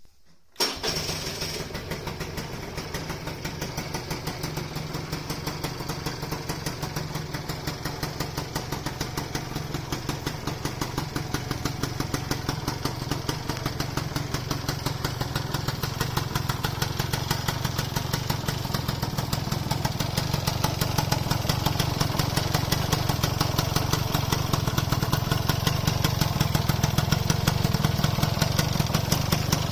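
Customized Gilera Runner FXR180SP scooter's two-stroke single-cylinder engine, with aftermarket exhaust and carburettor, starting up about half a second in and then idling steadily, slowly getting louder.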